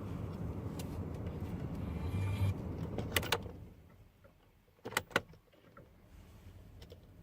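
A Kia Sportage or Hyundai Tucson engine cranking on the starter without catching, a steady low hum that stops about three and a half seconds in. Two pairs of sharp clicks follow, the second about two seconds after the first.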